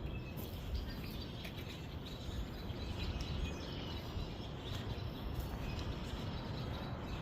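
Steady outdoor background noise with faint bird chirps here and there.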